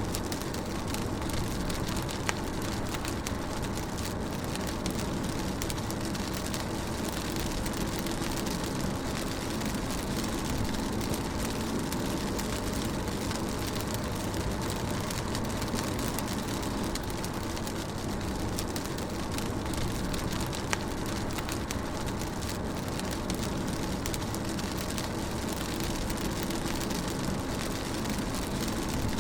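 Rain falling on a moving car, heard from inside the cabin, over the steady low rumble of the engine and tyres on wet road. Twice a single louder tap stands out.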